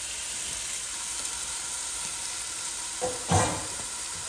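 Cubed raw chicken sizzling steadily as it browns in a very hot non-stick pot with no oil. There is a brief knock about three seconds in.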